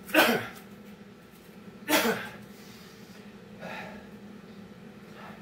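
A man breathing hard from exertion: two loud, sharp exhales about two seconds apart, then a softer breath nearly four seconds in, over a faint steady hum.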